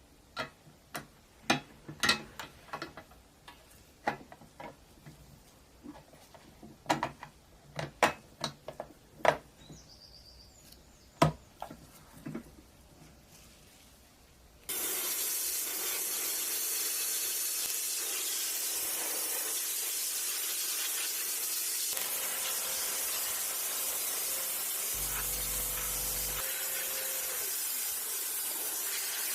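Sharp clicks and knocks of small metal toy parts being handled, then about halfway through a steady hiss of paint being sprayed starts suddenly and keeps going.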